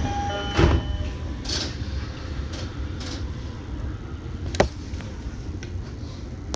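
Sōbu Line local commuter train with a steady low rumble. A short steady chime ends about a second in, with a thud just before it, and a sharp click comes about four and a half seconds in.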